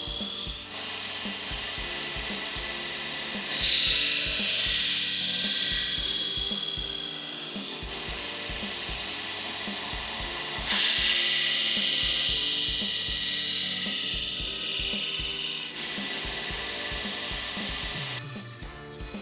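Belt grinder with a coarse belt grinding the edge profile of a soft-steel knife blade. There are loud hissing grinding passes while the blade is pressed to the belt, the longest about four and five seconds. The grinder runs quieter between passes, and the sound drops away near the end.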